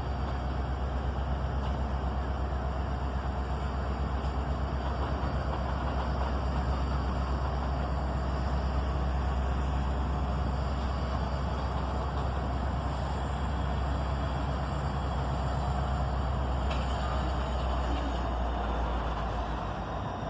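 Diesel freight locomotives working under power with a steady low rumble as they shove a long freight train in reverse.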